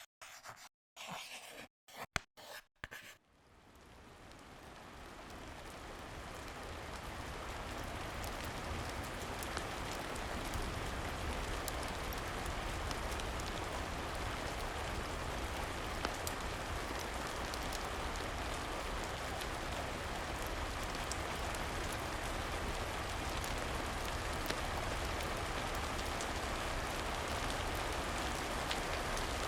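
Steady rain fading in over the first several seconds, with scattered sharp crackles of a wood fire in a fireplace. Before the rain comes in, a few short, choppy sounds broken by silences.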